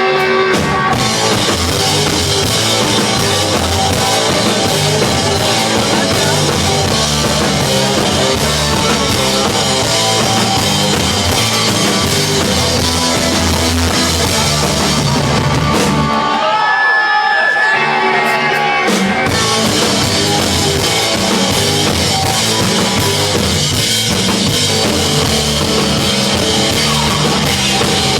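Rock band playing live with drums, bass and guitar. About sixteen seconds in, the drums and bass drop out for a couple of seconds, leaving held guitar notes, then the full band comes back in.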